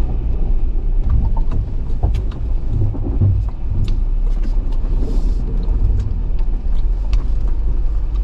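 2022 Jeep Wrangler JL crawling slowly over rocky trail, heard from inside the cab: a steady low engine and drivetrain rumble with scattered small knocks and clicks throughout.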